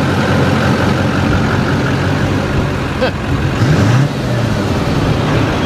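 2002 Chevrolet Silverado 2500 HD's Duramax diesel V8 idling through a new MBRP aftermarket exhaust, with a short rev a little before the four-second mark.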